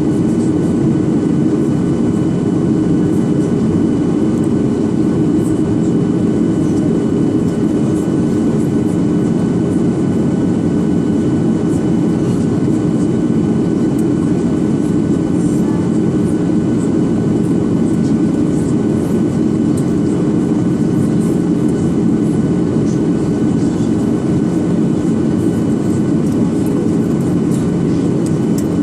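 Boeing 737-800 airliner's CFM56 jet engines and airflow in flight on the approach to landing: a steady low rumble with faint, steady high whines above it.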